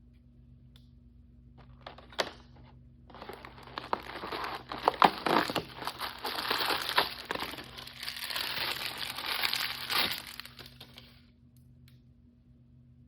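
Blind-bag packaging crinkling and crackling as it is handled and opened. A couple of sharp clicks come about two seconds in, then dense crinkling runs for about eight seconds, loudest about five seconds in, and dies away about eleven seconds in. A faint steady hum sits underneath.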